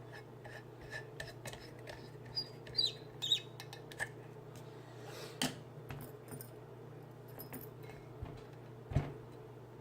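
Small metal clicks and light clinks as a Medeco BiAxial lock is handled in a vise with lock-picking tools, with a couple of louder clicks about halfway through and near the end. A steady low hum runs underneath.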